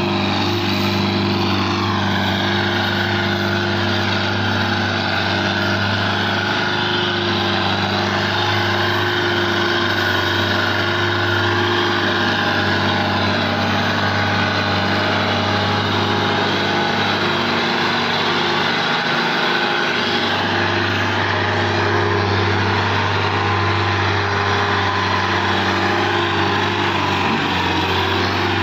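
Belarus 510 tractor's diesel engine running steadily, its note sagging briefly about two-thirds of the way through before picking up again.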